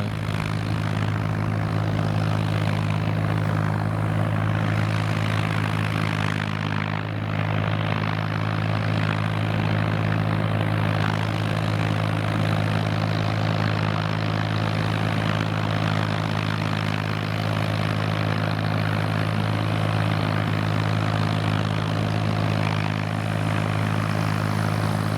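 Kubota M5000 tractor's diesel engine running steadily under load as it drives a rotary tiller through the soil, a constant low drone.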